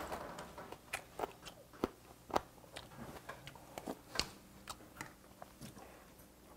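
A person chewing food close to the microphone: irregular wet crunches and sharp mouth clicks.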